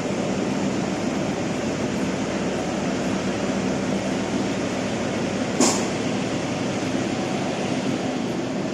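Steady running noise of a train with a low hum, and a single sharp knock about five and a half seconds in.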